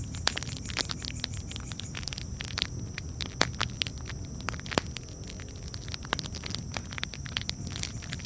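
Wood fire crackling: irregular sharp pops and snaps, a few louder ones in the middle, over a steady low rumble of the flames.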